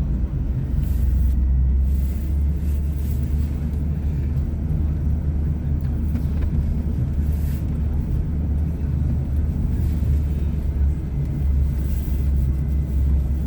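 Engine of a small off-road utility vehicle running steadily as it drives along a snow-covered woods track, with a constant low drone.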